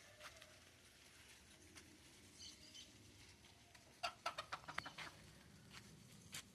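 Quiet ambience with faint short bird chirps, and a quick run of sharp clicks about four seconds in, with one more click near the end.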